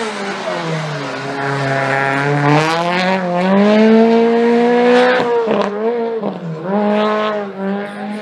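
Rally car engine at full throttle: the note drops, climbs steadily for a few seconds, cuts sharply about five and a half seconds in, then rises again.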